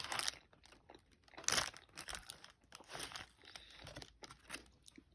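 Paper food wrapper crinkling in several short bursts as a burrito is handled.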